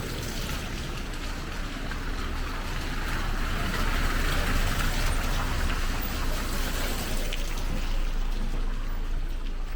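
Rainy street ambience: an even hiss of rain and wet surfaces that swells about three seconds in and stays up, over a low rumble.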